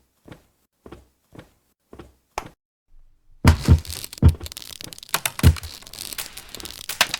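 A run of light, separate ticks, about two a second. Then, about three and a half seconds in, a loud spell of crunching and cracking with several heavy thumps, as of something brittle being crushed.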